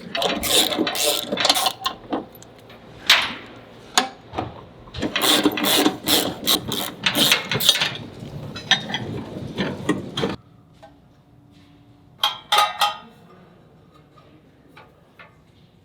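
Ratchet wrench clicking in quick runs as the tow hook's bolts are worked loose, stopping about ten seconds in, with a few more clicks a couple of seconds later.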